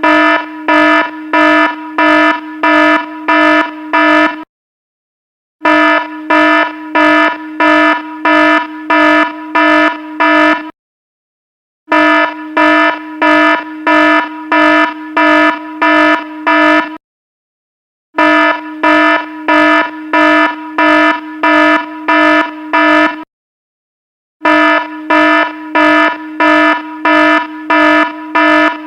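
Electronic alarm sounding in a repeating pattern: about five seconds of loud, buzzy beeps, roughly two a second, then a pause of about a second, over and over.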